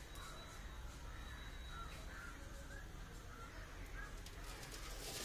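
Birds calling in the background, short calls about twice a second that sound crow-like. A brief hiss comes near the end.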